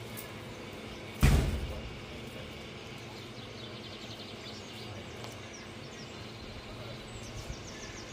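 Outdoor background hum with one loud, sudden thump about a second in, then faint runs of quick, high chirps, like small birds, from about three seconds in and again near the end.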